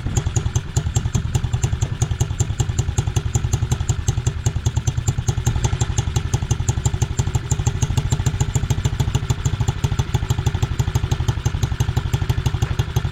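SSR 110cc pit bike's single-cylinder four-stroke engine idling steadily with a fast, even putter, running just after its carburettor was cleaned. It barely holds its idle and bogs a little when revved.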